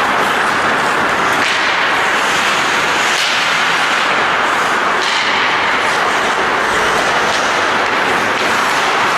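Ice hockey rink noise during play: a steady, loud wash of noise with a few faint clicks.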